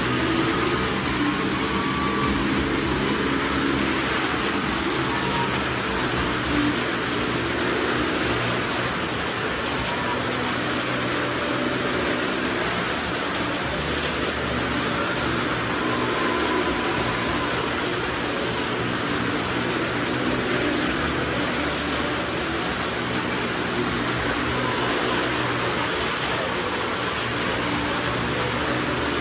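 Cars circling the vertical wooden wall of a well-of-death drum, their engines running on without a break in a steady, loud din.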